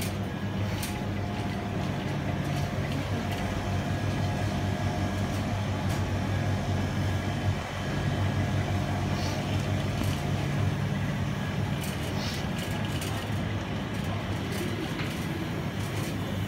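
Steady low hum and rumble of a moving vehicle.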